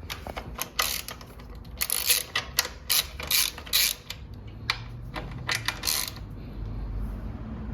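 Ratchet wrench with a 12 mm socket clicking in short runs as it loosens the bolts holding a motorcycle's rear tail section.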